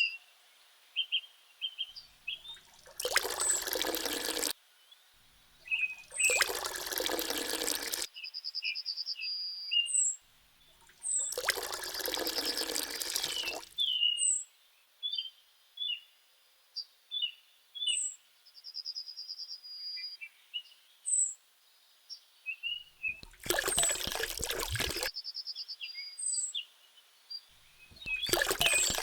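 Small birds chirping and trilling throughout, broken by five loud stretches of rushing noise, each lasting one and a half to three seconds.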